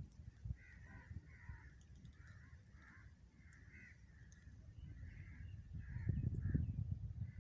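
Birds calling over and over, short calls about two a second, over a low rumble that swells about six seconds in.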